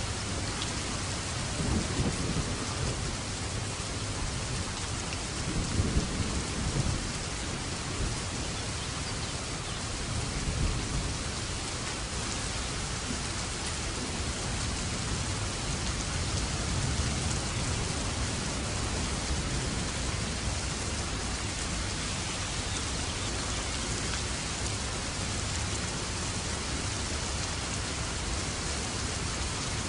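Steady rain falling, with low rolls of thunder rumbling several times, strongest about 2, 6 and 11 seconds in.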